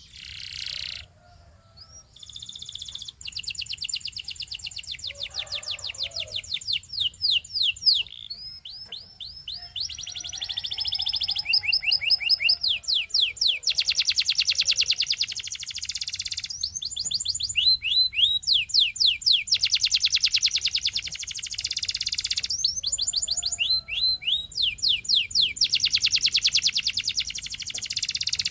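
Domestic canary singing a long run of rapid trills: fast strings of repeated falling whistled notes in phrases of a few seconds, each phrase at its own speed, with short breaks between them.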